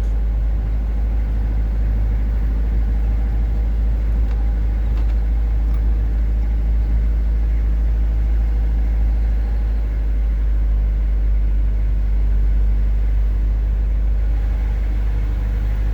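Steady low rumble of a manual car's engine and road noise, heard from inside the cabin of the moving car.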